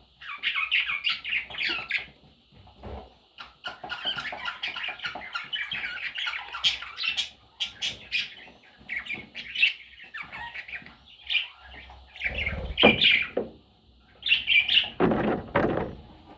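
Pet budgerigars chirping and chattering in quick runs of short calls. Two louder, noisier bursts come near the end.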